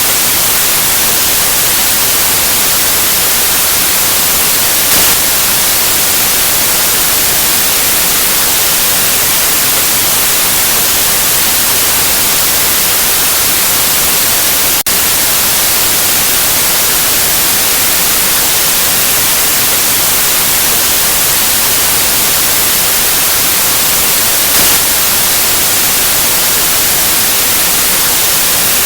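Loud, steady white noise: an even, unchanging hiss, with a single brief click about halfway through.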